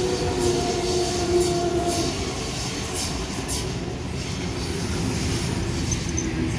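Passenger train running through the station with a heavy low rumble. Squealing wheel tones sound over the first two seconds, along with repeated sharp clicks of wheels passing over rail joints.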